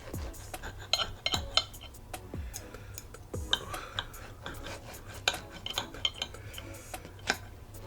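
Butter knife and fork cutting into a waffle on a plate, with repeated clinks and scrapes of metal on the plate.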